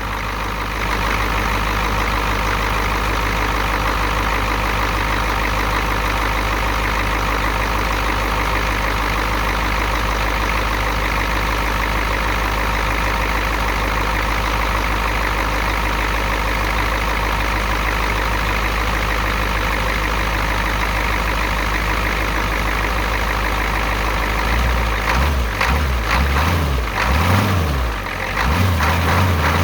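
1987 Ford F350's 7.3-litre IDI V8 diesel idling steadily soon after a cold start. It runs loud and even, then its sound turns uneven and a little louder in the last few seconds.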